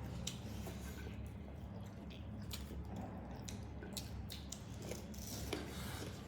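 Close-up mouth sounds of eating chicken curry and rice: wet chewing and squishing with irregular sharp smacks and clicks, over a steady low hum.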